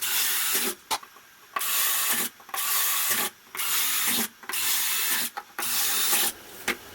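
Drill boring starter holes through MDF, with the bit cutting in about six short bursts of under a second each, separated by brief pauses.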